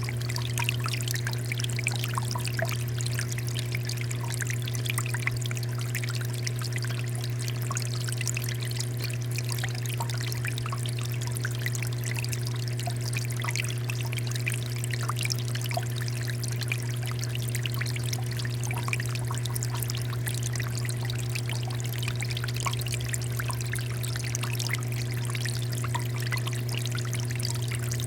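Water fountain pouring and trickling steadily, with light splashing, over a steady low hum.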